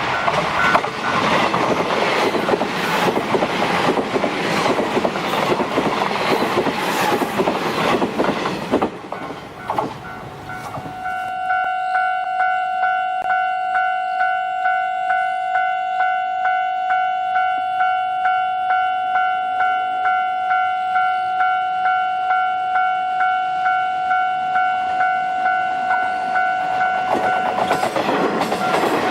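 A train passing with wheel clatter on the rail joints, fading after about nine seconds. Then a level-crossing warning bell rings steadily, about two strikes a second, and near the end train noise builds again as another train approaches.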